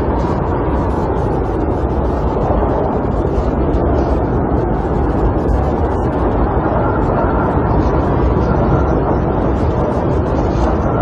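Snowstorm wind blowing against a camper, a steady, deep rushing rumble with no breaks.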